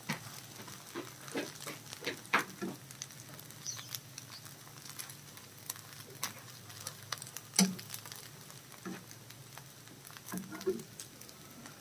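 Rice-flour roti frying in oil in a pan: a faint sizzle with scattered crackles and pops from the hot oil. Occasional light clicks from a metal spatula on the pan, the loudest about three quarters of the way through.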